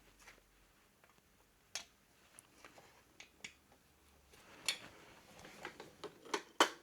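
A few sharp, irregular clicks and light taps, with faint rustling between them: small metal parts and hand tools being handled.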